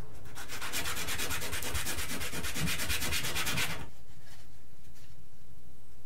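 Sanding by hand: a rapid, even scratching of quick short strokes for about three and a half seconds, which then stops.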